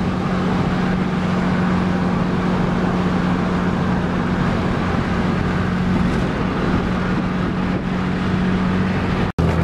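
Turbocharged Proton Saga's four-cylinder engine cruising at steady revs, heard from inside the cabin over a steady rush of road noise. The sound cuts off suddenly just before the end.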